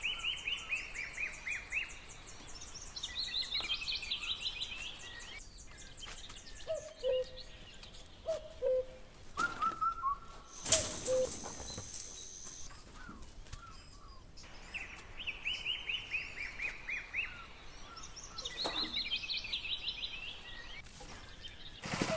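Birds singing outdoors, one repeating a short phrase of quick falling notes several times, with lower calls in the middle. A few sharp knocks come through, the loudest just before halfway.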